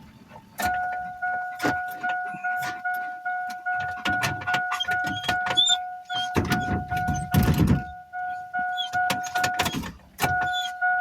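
A truck's warning chime dinging on and on in a fast, steady run of tones. It stops briefly near the end and starts again. Irregular sharp taps and knocks sound over it, with a louder rushing thump in the middle.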